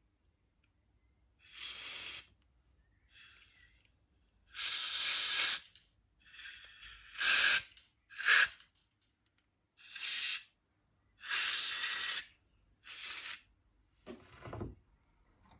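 Compressed air blowing through a lawn mower carburetor to clear debris from its clogged jets: about eight short, sharp bursts of hiss, each under about a second.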